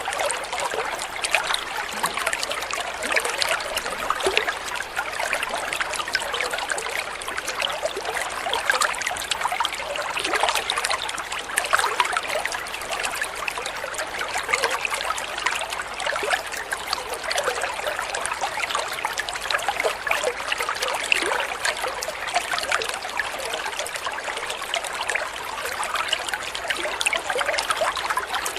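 Water trickling and splashing steadily, a dense patter of many small drips and splashes like a small stream or fountain.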